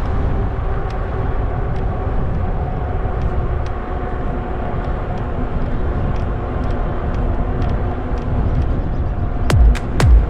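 Riding noise from an e-bike on a trail: a steady low rumble of wind and tyres, with scattered faint clicks. Near the end come a few quick falling swoops.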